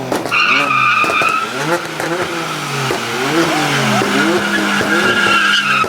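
A car spinning its tyres: the engine revs up and down over and over while the tyres squeal, the squeal loudest near the start and again near the end.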